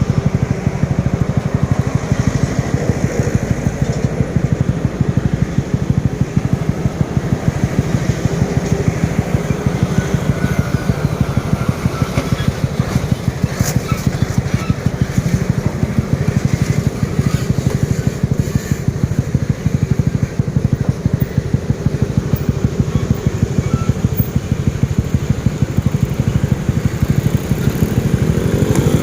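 Vehicle engine running steadily on the road, with a regular pulsing throb of about four beats a second.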